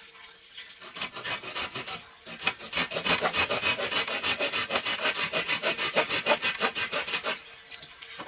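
Wood being scraped by a hand tool in quick, even strokes, starting about a second in, pausing briefly, then stopping near the end.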